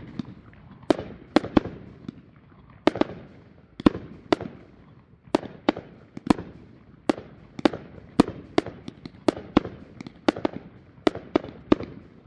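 New Year's Eve fireworks going off: a steady run of sharp bangs, one or two a second, each with a short echoing tail.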